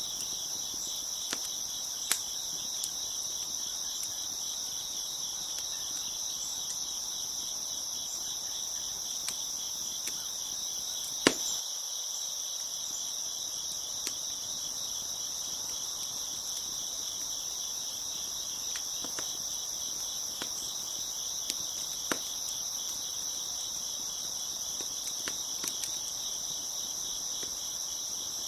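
A dense chorus of crickets chirping steadily. A few sharp pops from a crackling wood fire break in now and then, the loudest about eleven seconds in.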